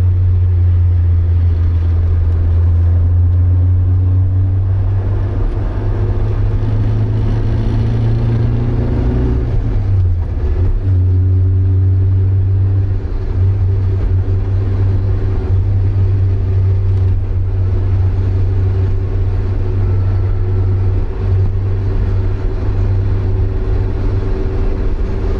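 Porsche 924's 2.0-litre four-cylinder engine running under way, heard from inside the car: a steady drone that rises in pitch, dips briefly about ten seconds in, then runs on steadily.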